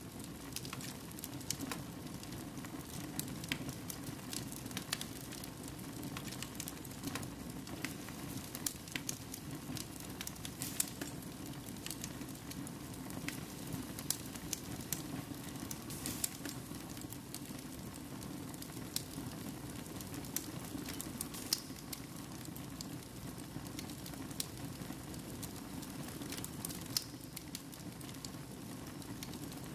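Wood fire burning in a fireplace: irregular sharp crackles and pops over a steady low background noise.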